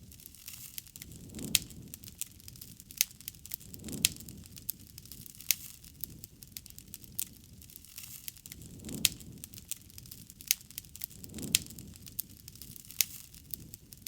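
Campfire burning, its wood crackling with frequent sharp pops, and a few soft low swells of flame.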